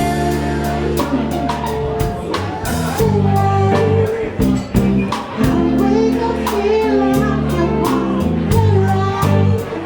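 A band playing a song: a singer over guitar and drums, with a steady beat.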